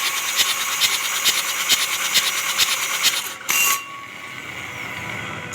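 Mitsubishi 4M40 four-cylinder diesel being cranked by its starter, turning over with an even beat of a little over two strokes a second without catching, the sign of a hard-starting engine. The cranking stops about three and a half seconds in after a short burst, leaving a low hum.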